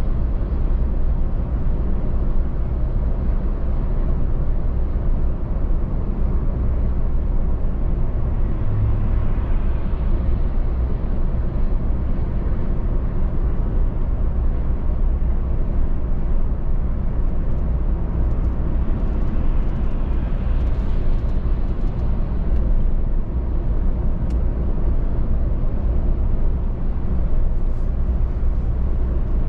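Car driving at steady speed: an even, low rumble of tyres on the road and the running engine, with no sudden events.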